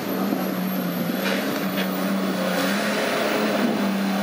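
Off-road 4x4's engine running at a steady pitch, with a hissy noise over it.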